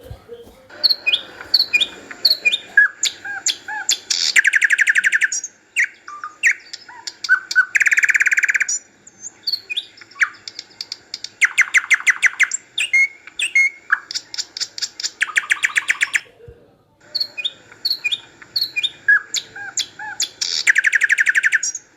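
Small birds singing: quick chirps and whistles broken by rapid buzzing trills, each about a second long, the same kind of phrase coming round several times with a short pause about two-thirds of the way through.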